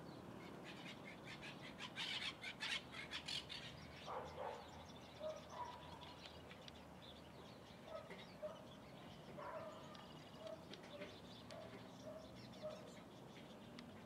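Birds calling: a run of short repeated notes, about two a second, in the second half, with a brief flurry of quick rustling strokes about two seconds in.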